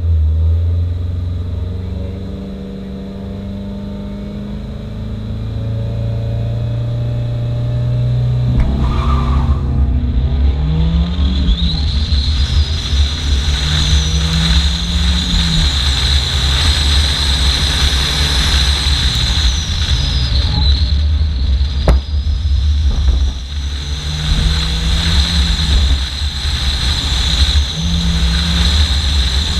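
Fiat Seicento Sporting's 1.1-litre four-cylinder engine held at steady revs on the start line, then launching about eight seconds in and pulling hard through the gears, the revs climbing and dropping back at each shift. A single sharp knock comes about two thirds of the way through.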